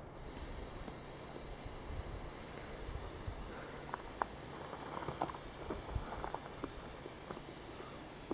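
A steady high-pitched hiss that starts abruptly, with a few faint ticks over it.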